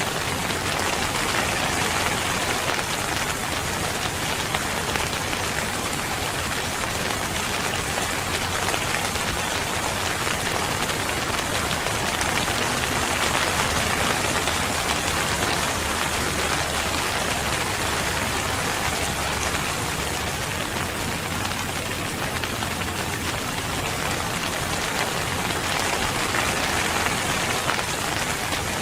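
Steady rainfall pattering on surfaces, a dense even hiss of many drops that swells gently now and then.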